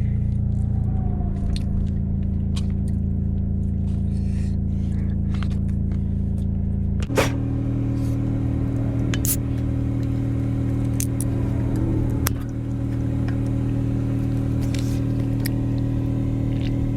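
Truck engine running steadily. About seven seconds in, its tone steps to a new, steadier pitch at a sharp click, and a few more light clicks follow.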